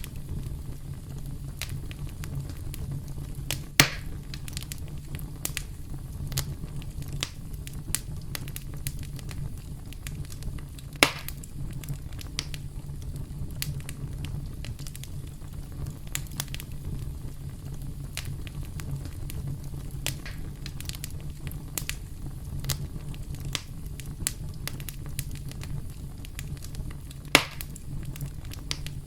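Campfire crackling: a steady low rumble of burning wood with frequent sharp pops and snaps, three of them much louder, at about four, eleven and twenty-seven seconds in.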